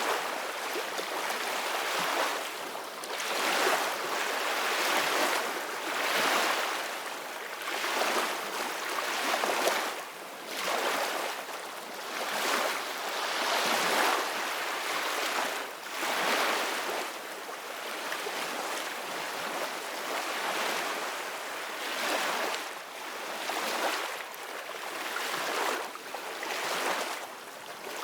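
Ocean waves washing onto the shore, a steady hiss of surf that swells and eases every second or two.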